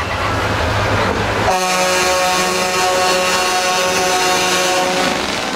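Truck air horn sounding one long steady blast about a second and a half in, lasting about three and a half seconds, over the low rumble of truck engines.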